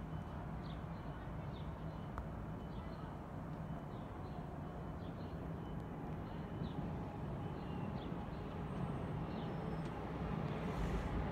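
Steady low rumble of trackside ambience along a busy rail line, growing louder near the end as a train approaches, with faint short high chirps about once a second.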